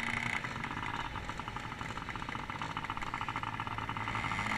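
Motocross bike engines running at the start line, a steady fast firing rhythm with no big revs.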